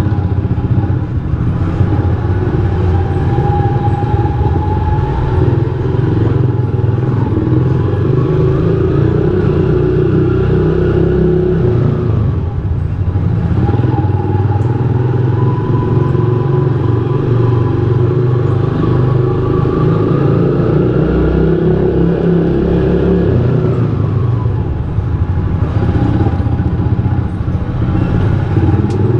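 Rusi Classic 250 motorcycle engine running while riding, its note rising and falling as it speeds up and eases off, with a clear drop in revs about twelve seconds in.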